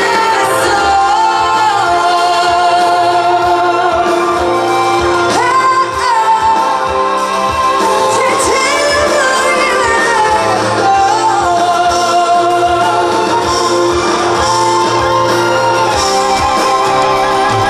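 Female pop vocalist singing live over amplified instrumental accompaniment, holding long notes with a wide vibrato.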